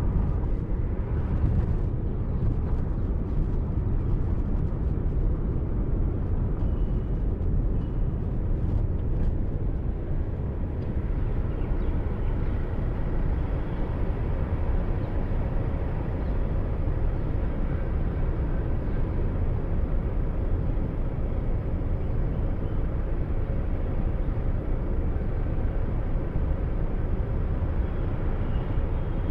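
Steady rumble of road and engine noise from a moving car, heard from inside through a dashcam's microphone.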